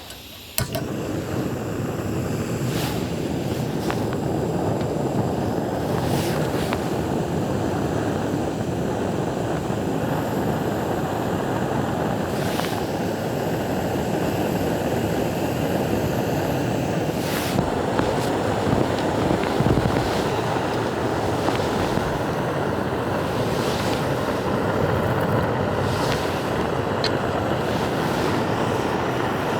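Camp stove burner lit about half a second in, then burning steadily with an even rushing hiss and a few faint ticks, heating water for tea.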